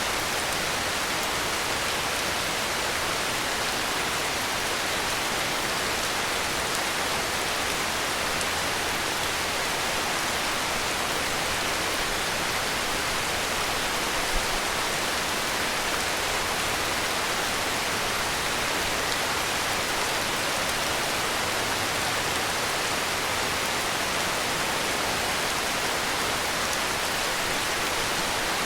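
Heavy rain falling steadily, an even, unbroken hiss with no distinct drops, and one brief tick about halfway through.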